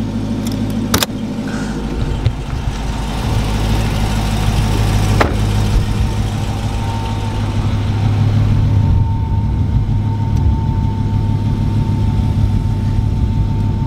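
Dodge Challenger SRT Hellcat Redeye's supercharged 6.2-litre HEMI V8 idling steadily. A sharp click about a second in comes from the hood release being pulled, and a second click follows about five seconds in.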